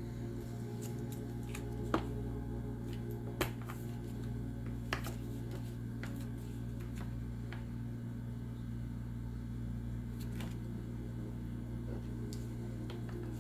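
Light clicks and taps of tarot cards being handled and laid down, three sharper ones in the first five seconds, over a steady low drone.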